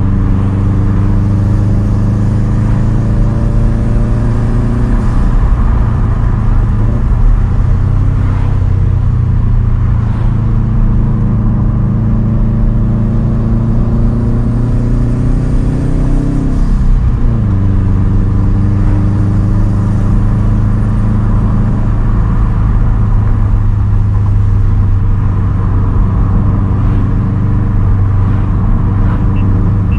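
2010 Subaru WRX STI's turbocharged flat-four running loud through a straight-pipe titanium exhaust while cruising. Its pitch climbs slowly, falls about five seconds in, climbs again, and drops sharply near seventeen seconds, then holds steady.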